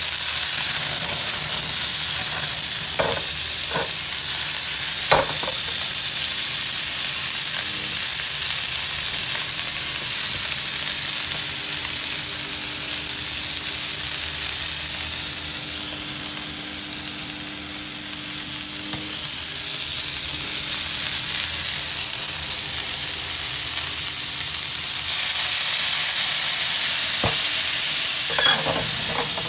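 Cubes of meat sizzling in hot fat in a black wok-style pan on a gas burner. The sizzle eases a little about halfway through. A few light knocks come at about three to five seconds in and several more near the end.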